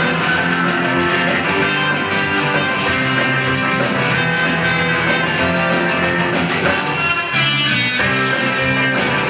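Rock band playing, with guitar to the fore over a steady beat; no singing in this passage.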